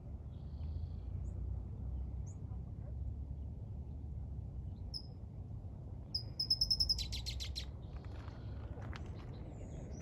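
Wild birds chirping in scattered short calls, with a fast run of repeated high notes about six seconds in, the loudest moment, over a steady low rumble.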